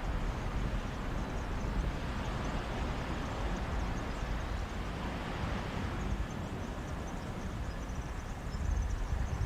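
Mediterranean sea waves washing onto a beach, with a steady sea breeze; the surf swells louder about halfway through.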